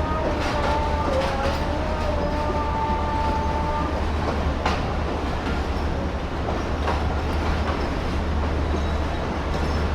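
Karakoram Express passenger coaches rolling out of the station, a steady rumble with the wheels clicking over rail joints now and then. A faint steady whine is heard during the first few seconds.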